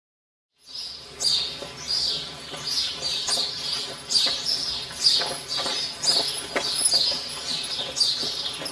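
Bird chirping: a short falling call repeated every half second to a second, starting about half a second in after a moment of silence.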